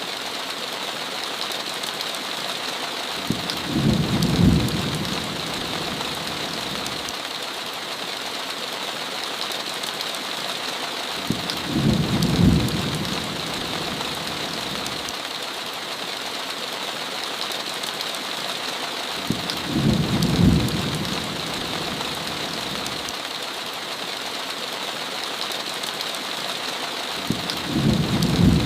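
Steady heavy rain with a short, deep rumble of thunder four times, evenly about eight seconds apart.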